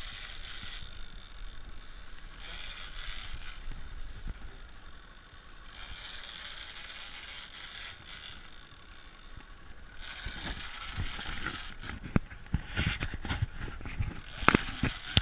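Fishing reel ratchet clicking in spells of one to two seconds with short pauses, as the spool turns. Several sharp knocks come in the last few seconds, the loudest near the end.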